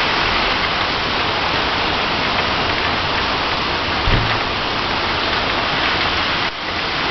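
Heavy, wind-driven rain from a tropical storm, a steady loud hiss as a new gust comes through, with a brief low thump about four seconds in.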